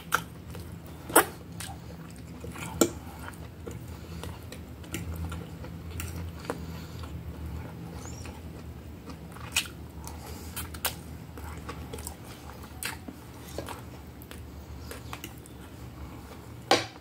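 Close-up mouth sounds of a person chewing and eating spaghetti, with scattered sharp clicks and smacks over a steady low hum.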